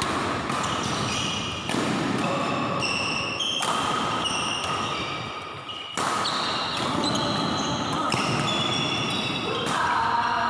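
Indoor badminton doubles play in a hall: sudden racket hits, with many short high squeaks from shoes on the court floor over a busy hall background with voices.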